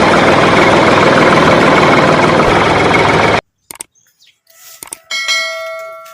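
Loud, steady engine-like noise from a toy vehicle that cuts off abruptly about three and a half seconds in. A few faint clicks follow, then a single bell-like ding that rings and fades.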